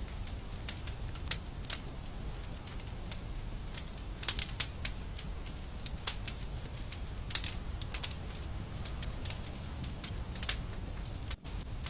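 Wood fire crackling: irregular sharp snaps and pops, a few louder ones, over a low steady rumble of the flames. A momentary drop-out in the sound near the end.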